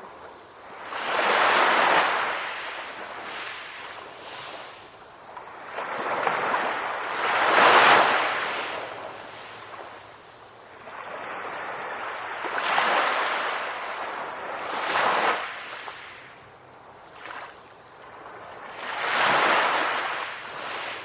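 Ocean waves breaking on the shore and washing back, one surge after another, each swelling and fading over a few seconds; the loudest comes about eight seconds in.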